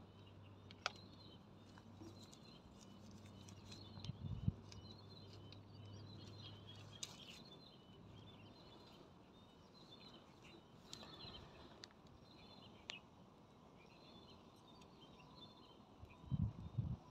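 Faint birds chirping over and over in the background, with a low steady hum that fades out about seven seconds in. A few dull thumps, the loudest about four seconds in and a cluster near the end.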